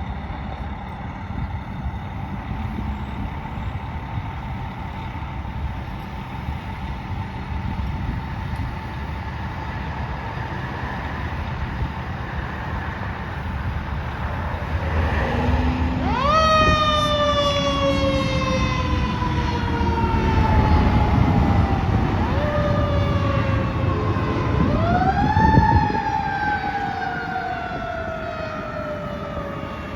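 Fire apparatus siren passing over the rumble of traffic: about halfway through it winds up sharply and then slowly falls in pitch, and it winds up twice more near the end.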